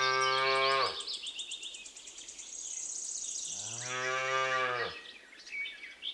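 A calf mooing twice: one call ending about a second in, then a second call starting about three and a half seconds in and lasting about a second and a half. Each call's pitch bends at its start and end. A faint, rapid, high chirping runs behind the first part.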